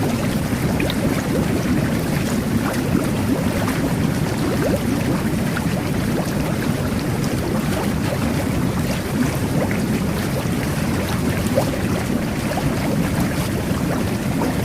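Jet bath (jacuzzi) water jets churning the bathwater: a steady, even rush of bubbling water with many small bubbling pops all through.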